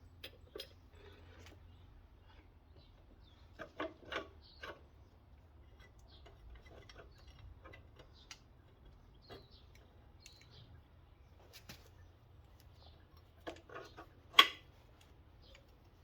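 Scattered light metallic clicks and clinks of small suspension spring parts being handled and fitted together by hand, with small clusters about 4 s and 13.5 s in and one sharper clank about 14.5 s in.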